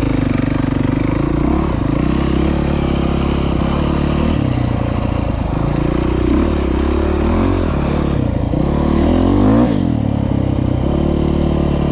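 Single-cylinder off-road engine running under the rider, heard close up from on board, its revs rising and falling with the throttle over rough trail, with a sharp rev climb and drop-off about nine seconds in.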